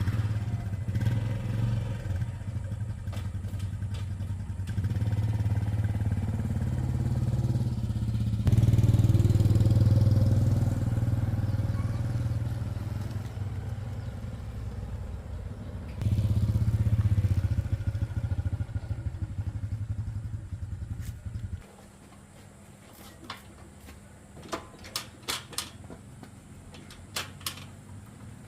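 Yamaha Exciter motorcycle's single-cylinder engine running, getting louder twice as it is revved, then cutting off suddenly about three-quarters of the way through. A few short clicks follow.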